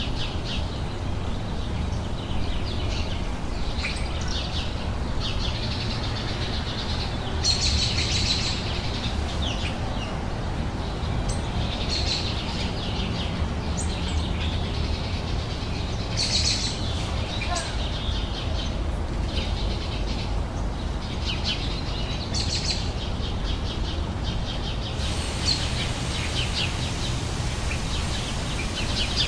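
Wild songbirds singing and chirping in quick repeated notes and trills, over a steady low background rumble.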